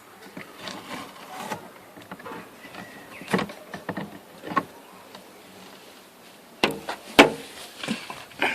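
Scattered light clicks and knocks, with two sharper knocks close together about seven seconds in.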